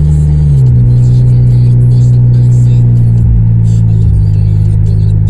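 Honda CR-V engine running loud through an exhaust with the resonator and muffler removed, a steady low drone. Its pitch steps down about half a second in and then holds.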